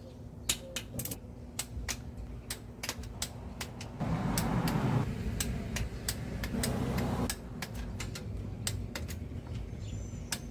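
Scattered sharp clicks of a torque wrench and ratchet as bolts are tightened to 12 foot-pounds, with two brief scraping, rustling noises about four and seven seconds in.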